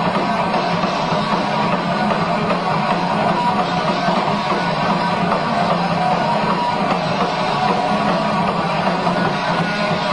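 Live heavy metal band playing an instrumental passage: electric guitar over a drum kit.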